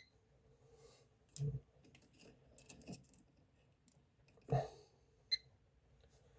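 Test leads and probes of a multifunction tester being handled and clipped on for a ring-circuit end-to-end continuity test: scattered small clicks and a couple of heavier knocks, with two very brief high blips from the tester, one at the start and one about five seconds in.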